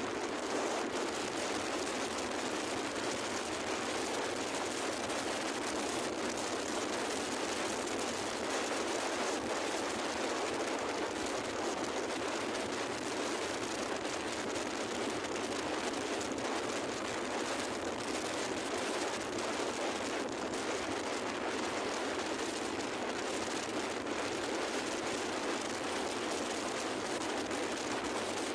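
Steady rushing noise of travel under way, an even roar without distinct tones or strokes.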